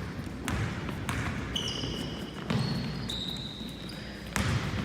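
Basketball game: the ball bouncing on the court with sharp knocks, and sneakers squeaking briefly on the floor.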